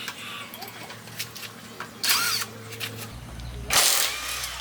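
A handheld power tool run in two short bursts of about half a second each, over a steady low hum.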